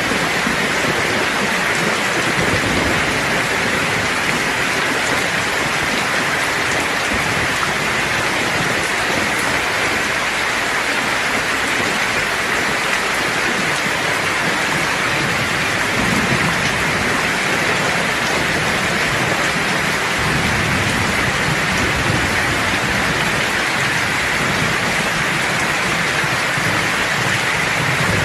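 Steady, dense rain pouring down, with low thunder rumbling underneath at times.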